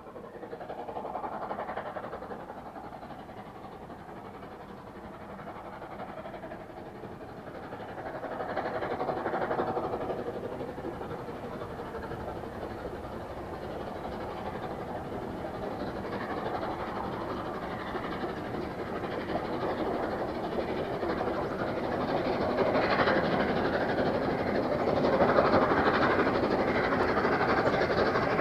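A steam locomotive hauling a train, growing louder as it approaches, with swells in loudness and the loudest part near the end.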